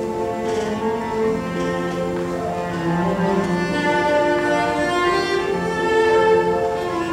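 Bowed string music with sustained, overlapping notes, such as a cello and violin ensemble.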